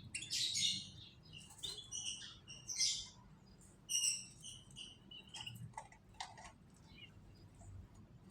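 Canaries chirping in short, quick bursts of high calls, loudest over the first four seconds and thinning out after, with a few sharp clicks in between.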